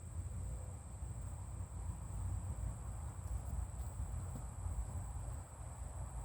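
Uneven low rumble of wind on the microphone, with a faint steady high-pitched whine above it and a few faint ticks about three to four seconds in.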